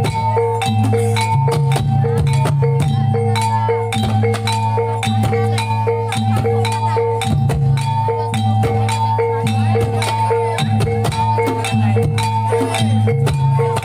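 Javanese reog accompaniment music: a percussion ensemble of tuned gongs or metallophones ringing a short pattern that repeats evenly, over a held low tone and dense drum strokes.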